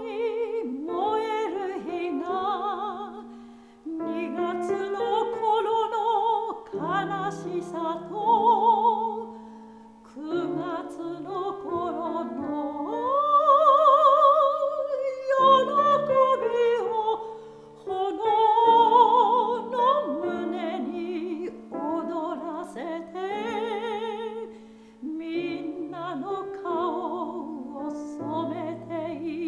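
Soprano singing a Japanese art song in classical style with piano accompaniment, with wide vibrato on long notes. The loudest moment is a long high note held about halfway through.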